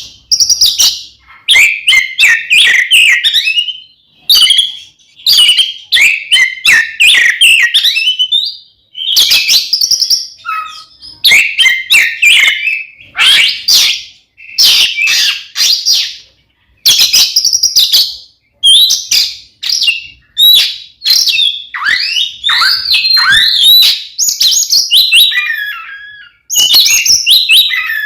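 Oriental magpie-robin (kacer) singing loudly in full, aggressive 'fighting' song: rapid, varied phrases of whistles, chirps and sharp clicking notes, broken by brief pauses.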